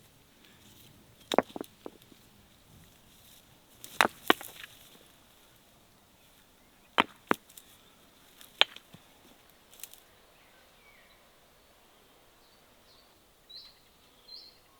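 A blade chopping into wood: sharp single strikes, mostly in pairs a third of a second apart, spaced a few seconds apart. A bird chirps faintly near the end.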